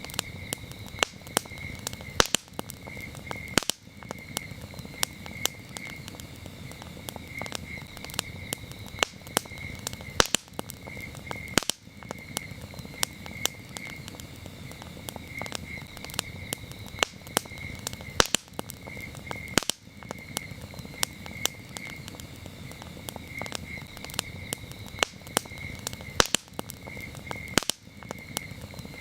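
Campfire crackling with frequent irregular sharp pops and snaps over a soft low hiss, while crickets chirp in short repeated pulses at a steady high pitch.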